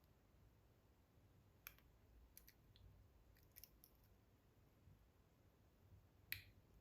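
Faint, scattered clicks of a lock pick working the pins of a pin-tumbler lock cylinder under tension, with a slightly louder click near the end.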